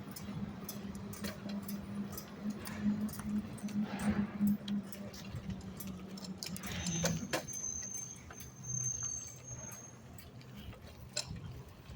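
Garbage truck engine running steadily, dropping to a lower pitch about seven seconds in, with scattered clicks and rattles.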